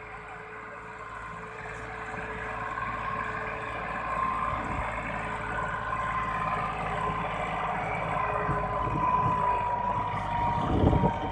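Massey Ferguson 260 tractor's diesel engine running under load while pulling a heavy mud trolley, growing steadily louder, with sharper surges near the end.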